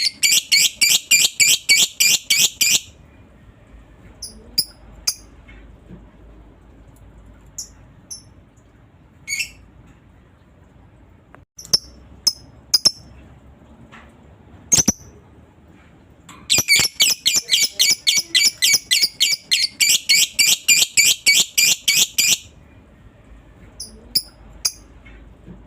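Lovebird chattering in long rapid trills of high, sharp notes, about five a second, in the kind of extended chatter that keepers call ngekek. There is one bout at the start, one from about two-thirds of the way in lasting some six seconds, and scattered single chirps between.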